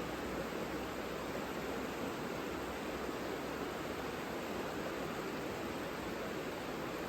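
Savica river flowing, a steady, even rush of water with no breaks.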